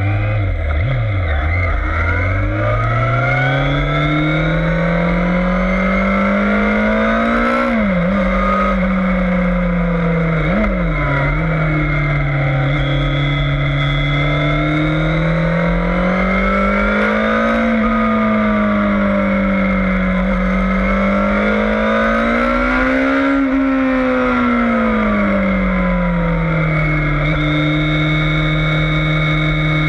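Yamaha FZS600 Fazer's 600 cc inline-four engine heard onboard at speed on a race track: the revs climb through the gears with quick shifts about eight and ten seconds in, then swell and fall repeatedly through corners and settle steady near the end, over constant wind rumble.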